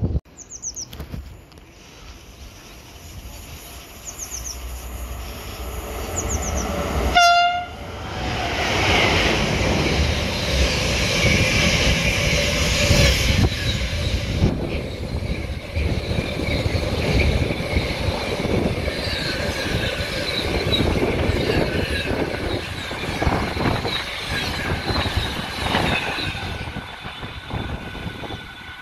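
A railway train horn sounds one short blast about seven seconds in. The train then passes at speed for nearly twenty seconds, a loud steady rush with the wheels clattering, and fades near the end.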